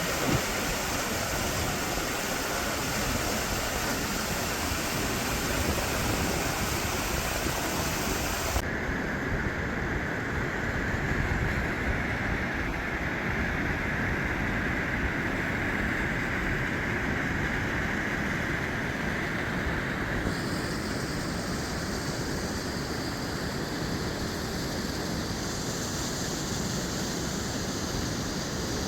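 Steady rush of falling and flowing water from creek cascades. Its tone changes abruptly twice, about a third and two-thirds of the way through.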